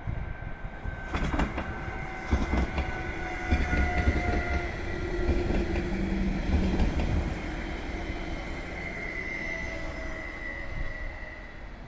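Stadler FLIRT diesel-electric train passing close by: sharp wheel clacks about one and two and a half seconds in, a low rumble as the cars go past, and a steady high whine that sinks slightly in pitch as it moves away.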